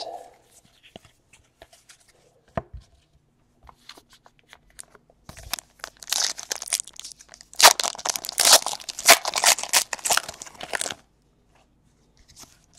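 Foil wrapper of a trading-card pack being torn open and crinkled, a dense crackling run from about five seconds in that lasts some five seconds, after a few faint taps of cards being handled.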